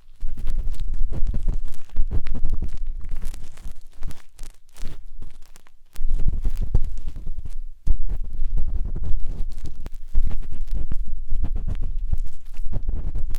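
Matchstick scraping and rubbing inside the silicone ear of a 3Dio binaural microphone: close, dense scratching with a deep rumble, easing off for a moment about four to six seconds in.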